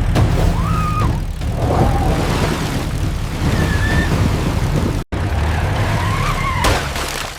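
Motor vehicles racing through mud: a steady low engine rumble under rough, noisy splashing, with a few short squeals. The sound drops out abruptly for an instant about five seconds in.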